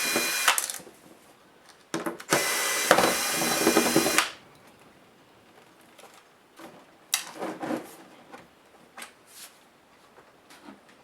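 A small handheld power driver whirring in two runs while backing out laptop screws: a short run that stops about half a second in, and a longer one of about two seconds starting two seconds in. Light clicks and taps of parts being handled follow near the middle.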